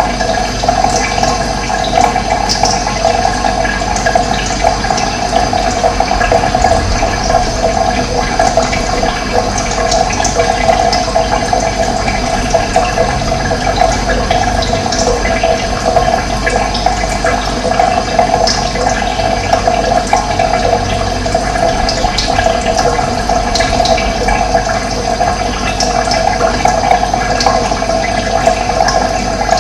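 Running water flowing steadily, an even rushing sound that doesn't let up.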